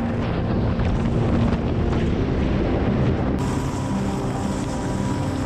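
Mil Mi-26 heavy-lift helicopter running, a dense steady rumble of rotor and turbine noise with wind buffeting the microphone. About three and a half seconds in, the sound turns suddenly brighter, as the footage changes.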